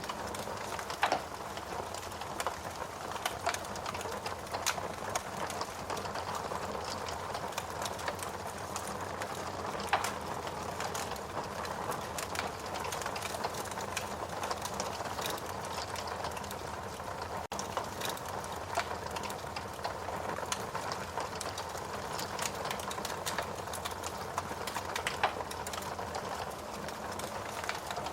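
Fire burning in a fireplace: a steady hiss and rush of flames with continual small crackles, and a few sharper pops about a second in, about ten seconds in and near the end.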